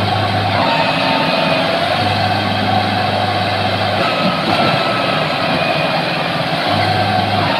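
Tractor engine running steadily and loudly, with a low drone that comes and goes.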